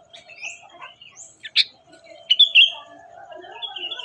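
Songbirds chirping: a series of short chirps and quick rising whistles, with the loudest notes about one and a half and two and a half seconds in, over a lower, continuous warble.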